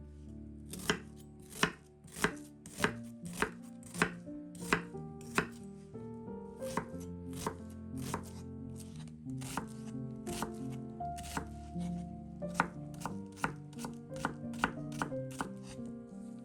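A knife chopping food on a cutting board, sharp strokes about one and a half a second at first, then softer and quicker, over background music.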